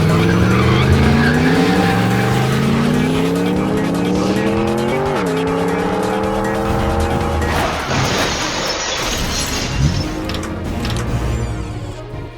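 Race car engine sound effect accelerating, its pitch climbing, dropping sharply at a gear change about five seconds in and climbing again, followed about eight seconds in by a burst of tyre screeching.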